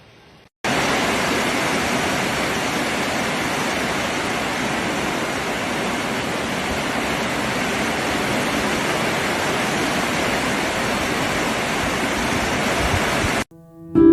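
Fast-flowing floodwater rushing: a loud, even hiss of water that starts suddenly about half a second in and cuts off suddenly near the end.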